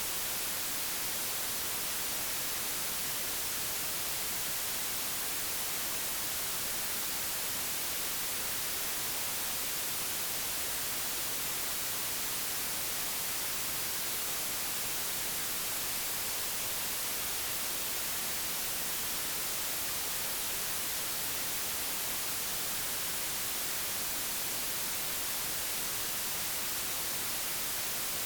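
Digitally generated white noise: a steady, even hiss that never changes, brightest in the high end.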